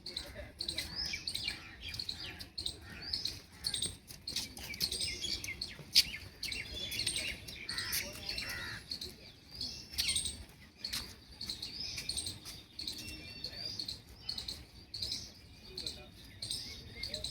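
Many small birds chirping and twittering in a continuous overlapping chorus, with one sharp click about six seconds in.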